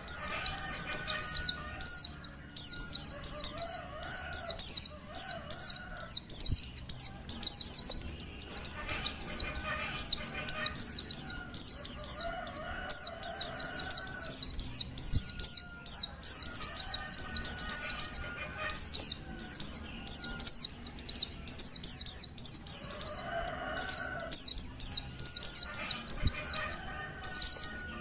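Female white-eye (pleci) calling: rapid runs of thin, very high chirps, each sweeping downward, in bursts of a second or two with short breaks. This is the female's call, used as a lure to set male white-eyes singing.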